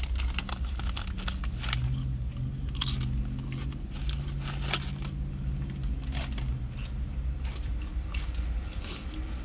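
Close-up chewing of a mouthful of steak and cheese sub, with wet crunching and smacking clicks throughout. A low steady hum runs under it from just after the start to near the end, briefly breaking about four seconds in.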